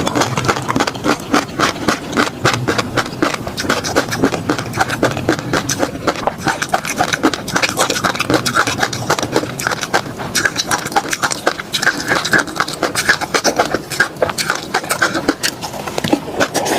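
Close-miked mouth sounds of someone eating peanut sauce: a rapid, continuous run of wet clicks and smacks.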